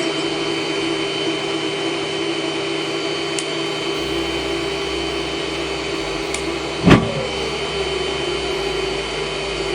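Waste oil burner running with a steady whirring hum, typical of its air blower, and one sharp knock about seven seconds in.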